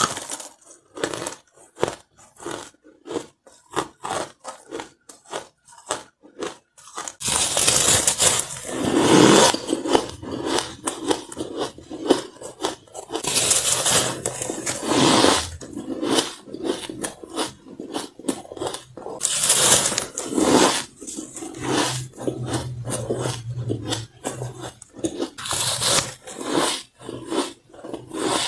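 Close-miked crunching of white ice being bitten and chewed: rapid crisp crunches with short gaps, turning into denser, louder, near-continuous chewing about seven seconds in.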